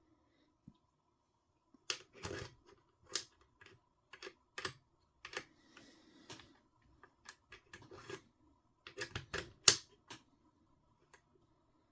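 Irregular sharp clicks and short clatters of small hand tools and metal parts being handled while working on an RC car's steering bell crank, with the loudest click near the end.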